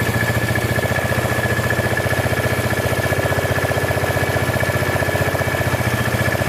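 A small engine idling steadily close by, with a rapid even putter and a thin high whine over it.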